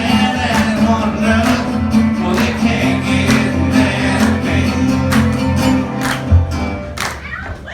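Live acoustic music: strummed acoustic guitars and singing with sustained low notes and a sharp beat about twice a second. The song comes to a stop about six seconds in.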